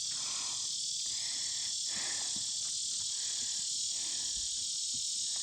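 Steady high-pitched chorus of insects buzzing continuously, with faint soft knocks of tack handling underneath.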